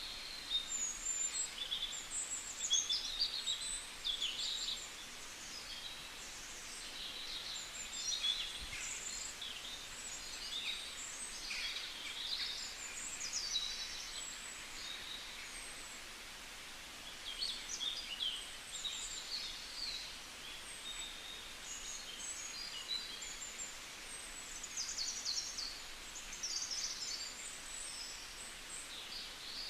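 Several songbirds chirping and singing together, short overlapping calls and trills that come and go throughout, over a soft steady background hiss.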